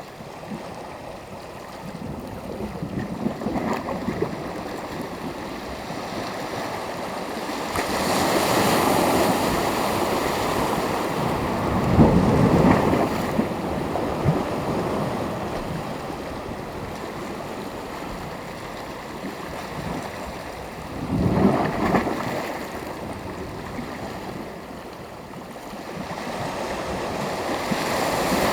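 Sea waves breaking and washing on the shore, a steady surf hiss that swells and ebbs, with louder breakers about twelve seconds in and again past twenty seconds.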